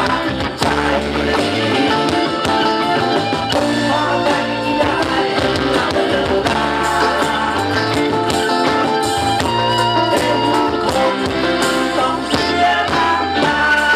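Live band music with electric guitar, bass and drums, played at an even loudness.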